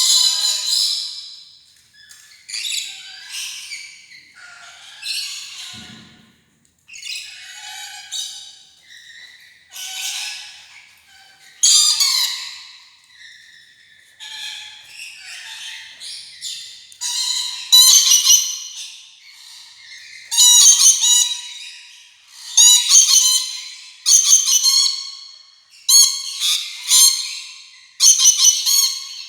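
Rainbow lorikeet squawking in a long series of shrill, harsh calls, about one a second, growing louder and more regular in the second half.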